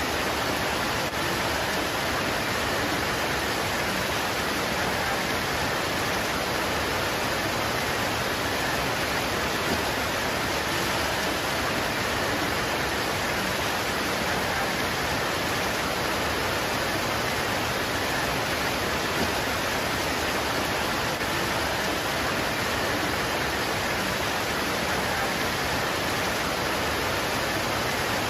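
Rain pouring on leaves: a steady, even hiss with no single drops standing out and no breaks.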